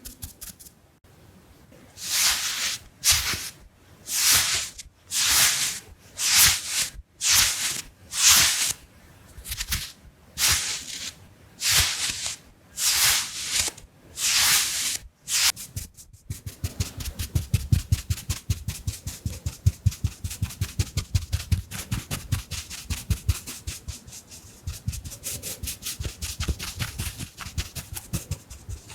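Makeup tools worked close against the microphone: about a dozen separate brushing swipes, each a short hiss, then, from about halfway through, a fast run of quick dabbing taps with a soft low thump to each.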